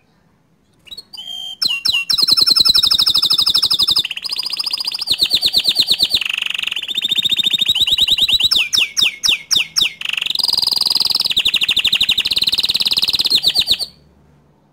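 Green canary singing one long continuous song of fast trills and rolls. There is a run of quick down-sweeping notes about two-thirds of the way through, and the song breaks off shortly before the end.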